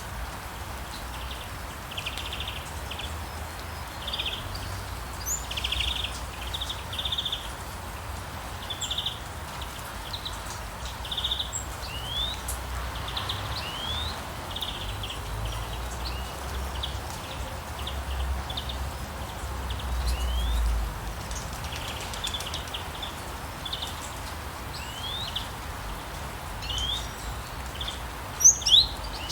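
Songbirds chirping and trilling over and over, short buzzy trills and quick upward-sweeping notes, over a steady hiss of falling rain. A couple of louder, sharper calls come near the end.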